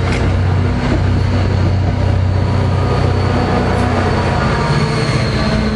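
Diesel-hauled commuter train running close by, a steady low engine drone with rail noise, without let-up.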